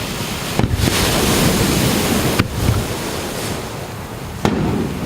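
Fireworks shells bursting over the sea three times, about two seconds apart, each a sharp bang followed by a long rumbling wash, with the steady rush of surf underneath.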